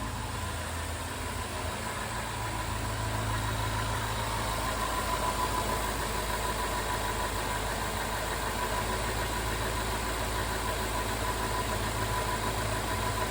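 2010 Range Rover engine idling steadily while still cold, shortly after a cold start. The owner says it runs and sounds great.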